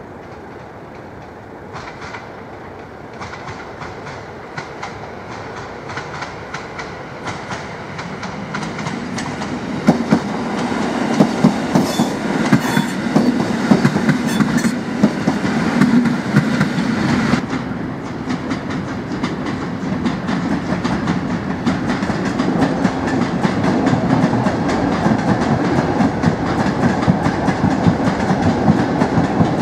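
An electric multiple unit approaches and passes over a level crossing, growing louder over about ten seconds, its wheels clattering over the rails. Partway through this gives way to a freight train of loaded hopper wagons rolling past with a steady rumble and clicking wheels.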